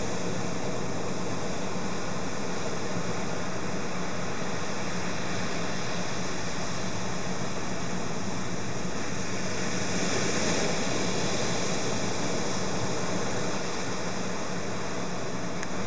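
Steady rushing noise of an approaching typhoon's storm, swelling slightly about ten seconds in.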